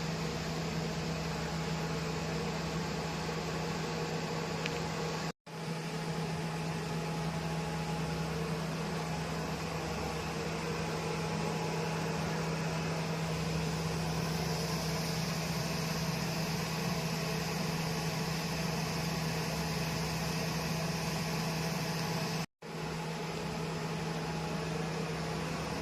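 Portable RF body contouring machine running during treatment: a steady hum with a fan-like hiss. The sound cuts out for an instant twice, about five seconds in and near the end.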